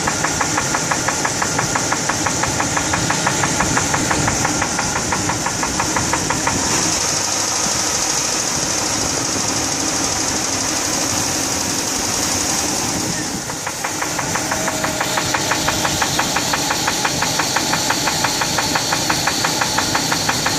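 1999 GMC Yukon engine running with a regular, rhythmic knock, a little less distinct for a few seconds in the middle. The owner fears the knock means the engine is shot.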